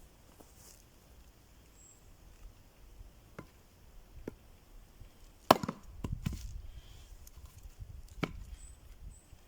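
Axe chopping wood: a few light knocks, then one sharp heavy blow about halfway through, followed by two more strikes.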